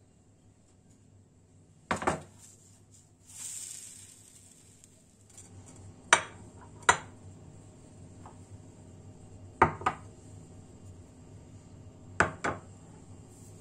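Dishes and cutlery clinking in a kitchen: sharp knocks of plates or utensils being set down, coming in pairs four times, with a short hiss about three and a half seconds in.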